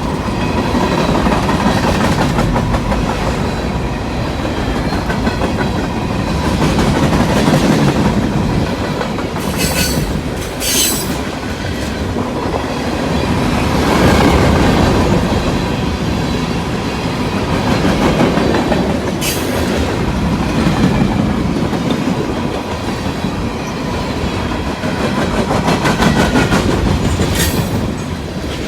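Freight train cars rolling past on a curve: a steady rumble with the clickety-clack of wheels over the rails, and a few brief high-pitched squeals from the wheels.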